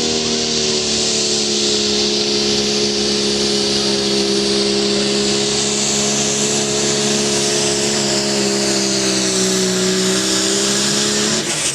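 Pulling vehicle's engine running flat out under load, held at high, nearly steady revs with the pitch sagging slightly, then cutting off near the end.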